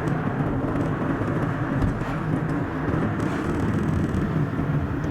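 Steady road and engine noise from a car driving along a highway, played back at double speed.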